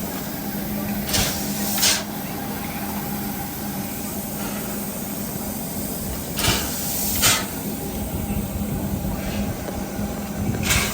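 Steam train running, heard on board: a steady rumble and hum, broken by three pairs of short, sharp hissing or clacking bursts a few seconds apart.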